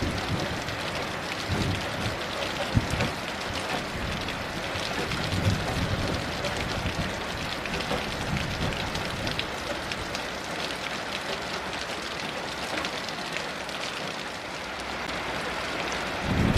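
Heavy rain falling steadily, a dense patter, with low rumbles of distant thunder now and then.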